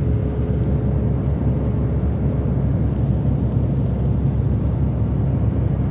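Car on the move: a steady low rumble of road and engine noise, even throughout.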